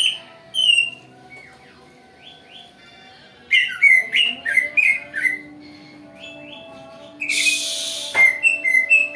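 Cucak ijo (green leafbird) song played as a lure: quick clusters of whistled chirps and slurred notes, with a short harsh rasping burst about seven seconds in.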